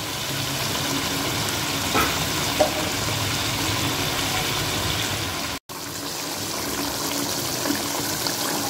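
Chicken feet and spice masala sizzling steadily in a wok as yogurt is stirred in, with a couple of light clicks a couple of seconds in. The sound breaks off for an instant about two-thirds of the way through.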